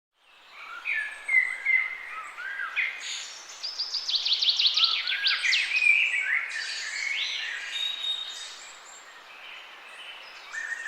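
Several songbirds singing and chirping together, fading in from silence, with a fast run of repeated downward-sweeping notes about three to five seconds in and a quieter stretch near the end.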